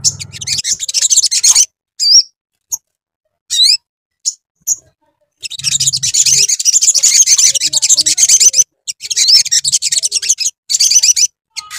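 Sogon (sogok ontong) bird singing a fast, high, twittering song in several bursts of one to three seconds, with short pauses and a few single chirps between them. This is the kind of lure song played to get a caged bird of the same kind singing back.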